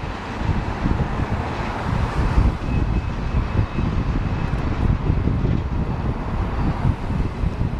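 A train rumbling past, with wind buffeting the microphone.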